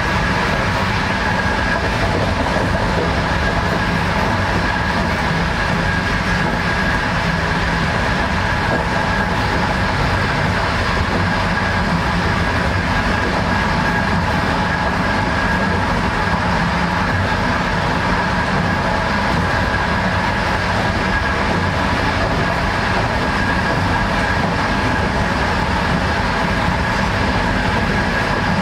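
Passenger train running at speed: a steady rumble of wheels on the rails with a constant high tone, heard from inside the carriage.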